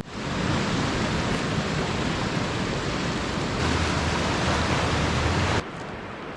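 Steady rushing hiss of water in a heavy downpour. A deeper rumble joins a little past halfway, and near the end it drops suddenly to a quieter hiss.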